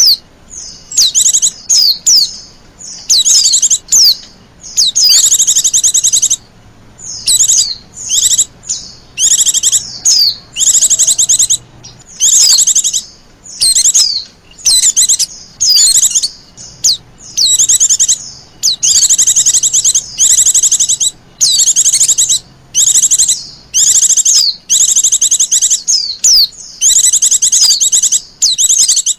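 White-eye (pleci) lure call: agitated, high-pitched chattering trills, repeated over and over in short bursts with brief gaps, the 'ribut' calls used to draw wild white-eyes in.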